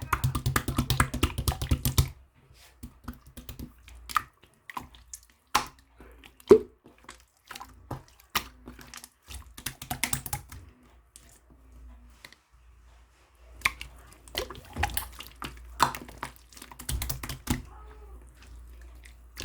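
Slime being pressed and squeezed by hand, giving runs of sharp clicks and wet pops as air pockets burst, a dense run in the first two seconds and another cluster toward the end, with scattered single pops between.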